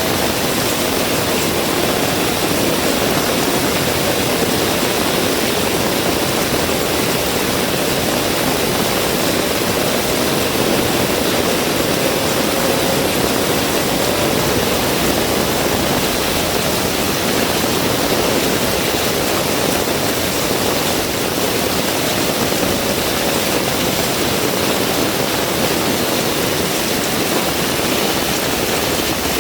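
Heavy rain falling steadily, a dense even wash of noise with no let-up.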